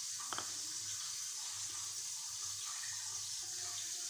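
Steady hiss, with one short light click about a third of a second in.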